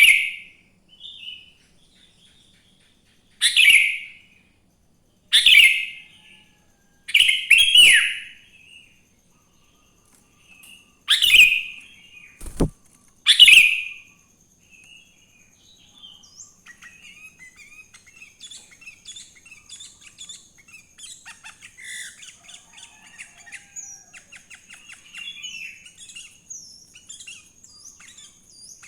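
Sooty-headed bulbul singing: six loud, short song phrases about two seconds apart, with one sharp click in between, then fainter, continuous twittering with a steady thin high tone behind it.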